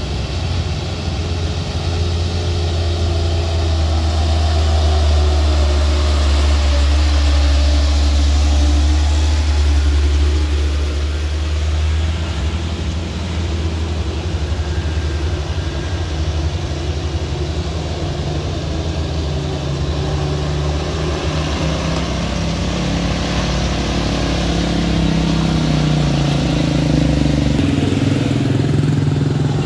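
Road vehicle engines running, with a strong low drone through the first half and an engine's pitch rising near the end.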